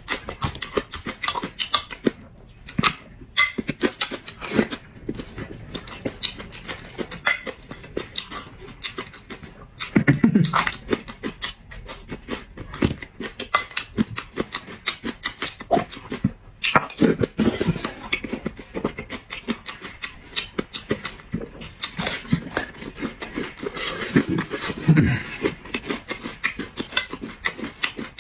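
Close-up eating sounds of a person chewing and smacking lips through a mouthful of food, a dense run of quick wet clicks, with a few louder bursts about ten seconds in and again near the end.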